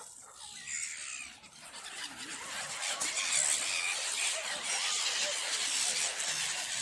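A flock of birds squealing and calling all at once, many overlapping high calls, building up after the first couple of seconds and staying loud.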